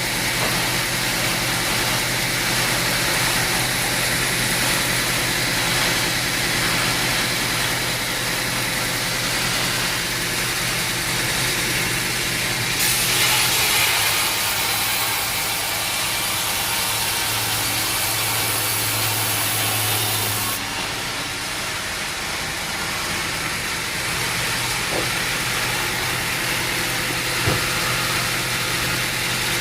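An engine running steadily at a constant speed, with a louder hissing noise that comes in about thirteen seconds in and stops about seven seconds later.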